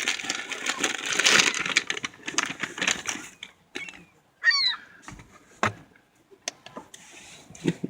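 A potato chip bag crinkling and rustling for about three seconds, then a seagull gives one short squawking call about four and a half seconds in, followed by a few light clicks.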